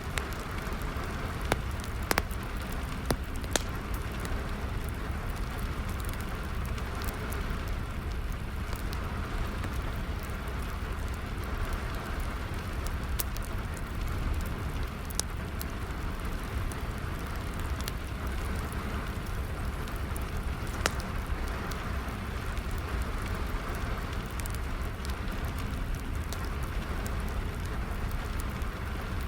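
Steady rain falling, mixed with a crackling fire whose sharp pops sound at irregular moments throughout.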